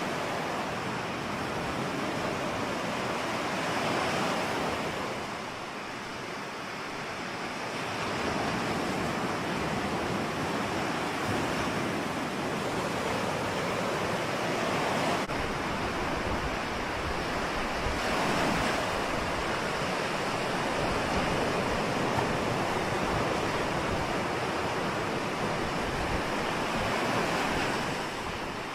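Ocean surf: a continuous rush of waves breaking and washing ashore that swells and eases, dipping briefly about six seconds in.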